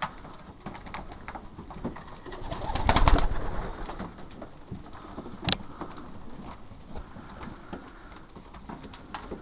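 Young racing pigeons cooing, with scattered small clicks, a louder noisy flurry about three seconds in and a sharp click a couple of seconds later.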